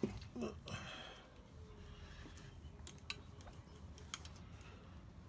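Faint handling noises: a few light, sharp clicks and taps spread over several seconds, just after the WD-40 spraying stops.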